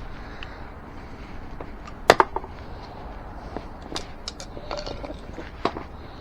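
Scattered sharp clicks and knocks, with a short squeak, as a tire and inner tube are worked off an e-bike's rear rim by hand.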